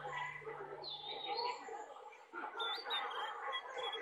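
Small birds chirping: a few high glides, then a short high note repeated about twice a second in the second half, over a faint chatter of voices.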